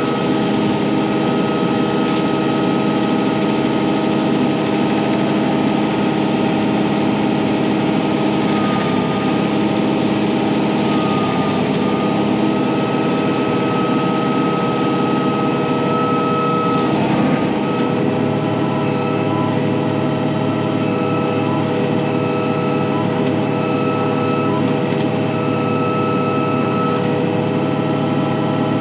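Kubota M4-071 tractor's diesel engine running steadily, with a steady high whine over it and a brief change in the sound about halfway through.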